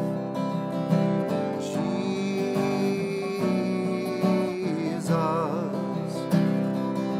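Music: a strummed acoustic guitar, with a long held melody note over it that wavers near the end.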